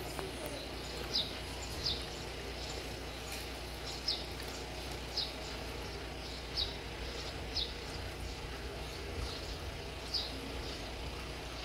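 A small bird chirping repeatedly, short high chirps that slide down in pitch and come every second or two, over a steady low background hum.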